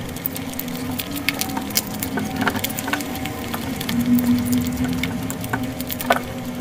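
Close-up eating sounds: wet chewing and lip smacking as chicken curry is eaten by hand, made up of many short, sharp clicks and smacks over a low steady hum.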